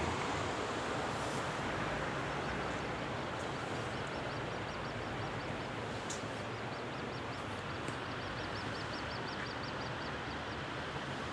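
Steady outdoor rushing noise with a bird giving a long run of quick, high chirps from a couple of seconds in until near the end, coming faster toward the end.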